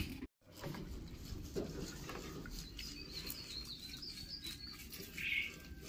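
Small birds chirping faintly over a steady low background hiss outdoors, with a run of high, quick chirps in the middle.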